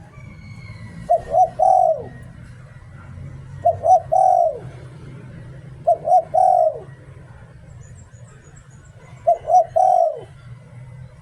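Spotted dove cooing in the 'liu tan' phrase style: four phrases a few seconds apart, each two short coos followed by a longer coo that falls away. Faint high chirps of other small birds and a low steady hum sit underneath.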